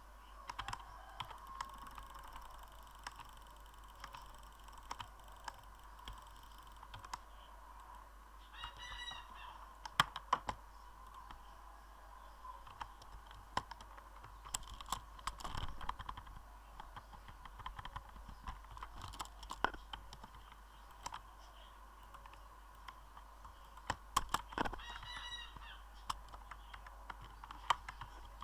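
Scattered, irregular clicks and taps over a faint steady hum, with two short high-pitched calls, one about a third of the way in and one near the end.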